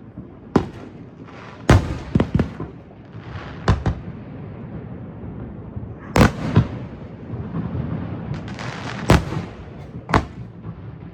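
Aerial fireworks bursting: about ten sharp booms at uneven intervals, the loudest about two, six and nine seconds in.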